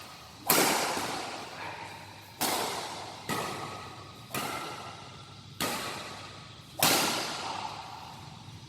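Badminton shuttlecock struck back and forth by rackets in a rally: six sharp hits about one to two seconds apart, each echoing and fading in a large hall.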